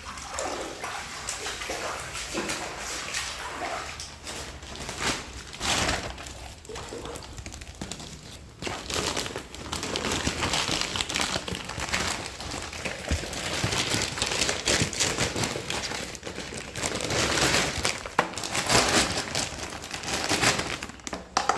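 Rustling, crinkling and knocking of household belongings being handled and moved about in a small room, in irregular bursts.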